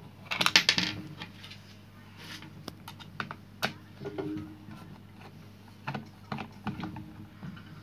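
Small metal clicks and clinks of a screwdriver and screws as the screws of an angle grinder's casing are undone, with a brief loud metallic rattle about half a second in, then scattered single clicks.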